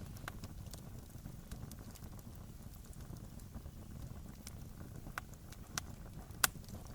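Campfire crackling: irregular sharp pops and snaps of burning wood over a steady low rumble, with one louder pop about six and a half seconds in.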